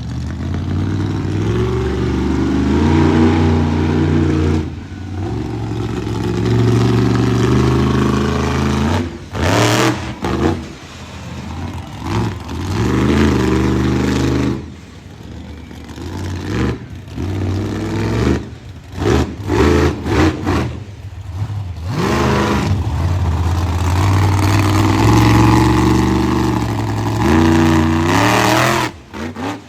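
Monster truck engine revving hard in repeated bursts, the throttle snapped open and shut again and again, each rev climbing then dropping away.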